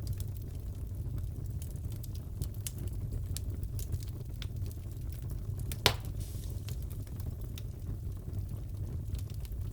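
Wood fire crackling in a fireplace: a steady low rumble under frequent small, irregular pops. One sharp, louder pop about six seconds in.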